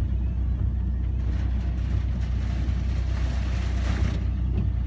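Steady low rumble of a car on the road, heard from inside the cabin. A hissing rush builds from about a second in and cuts off suddenly near the end.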